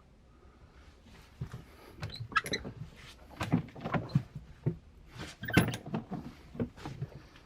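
An irregular run of knocks, clicks and rustles from things being handled in a small space, thickest in the middle with the loudest knock a little after halfway.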